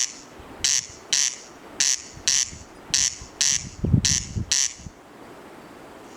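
Corncrake calling its dry, rasping double 'crex-crex', each pair of rasps about half a second apart and repeated about once a second, stopping shortly before the end.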